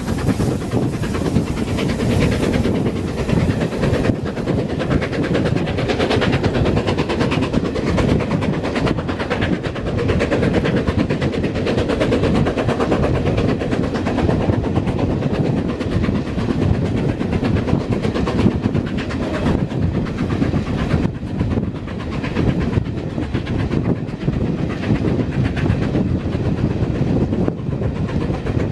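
Steam-hauled passenger train climbing a steep bank, heard from an open carriage window: the steady running noise of the carriage wheels on the rails, with the clickety-clack of rail joints, hauled by LMS Princess Coronation Class 4-6-2 No. 6233 Duchess of Sutherland.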